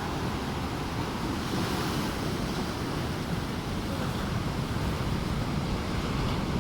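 Ocean surf breaking and washing onto a sandy beach as a steady, continuous rush, swelling slightly about two seconds in.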